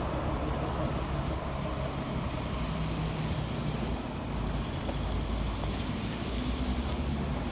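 A heavy vehicle's engine running steadily: a low, even hum with road noise and no sudden events.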